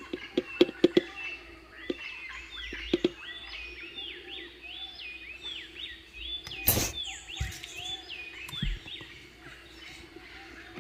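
A songbird singing: a rapid run of repeated, sweeping whistled notes, about three a second. Several sharp clicks in the first second and one loud knock about seven seconds in, from handling.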